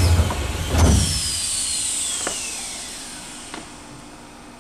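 Keisei 3000 series electric train braking to a stop: a knock about a second in, then the motors' whine falling steadily in pitch while the running rumble dies away, with a couple of light clicks as it halts.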